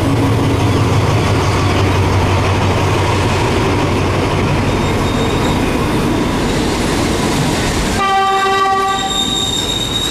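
A train running loudly through the station with a steady rumble, then a train horn sounding about eight seconds in as the rumble suddenly drops away.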